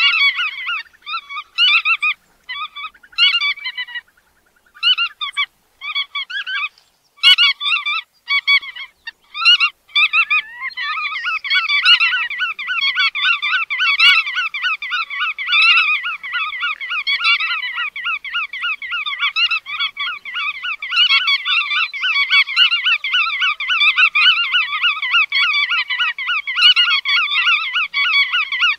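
Bar-tailed godwit calls: short bursts of repeated calls with gaps between them, then from about ten seconds in an unbroken, rapid run of calls, several notes a second.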